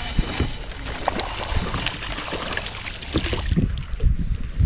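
Knocks and thumps on a fishing boat, heaviest near the end, over a steady background hiss.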